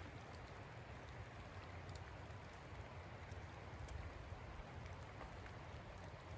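Light spring rain falling, a steady faint patter with scattered individual drops ticking.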